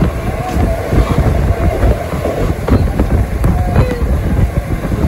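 Passenger express train running on the rails, heard at an open coach door: a steady heavy rumble of wheels with irregular knocks over the track. There are a couple of brief squeals, one about half a second in and one near four seconds.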